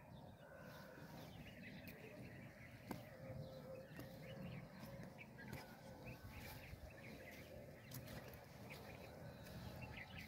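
Faint outdoor ambience: small birds chirping in short, scattered calls over a low rumble.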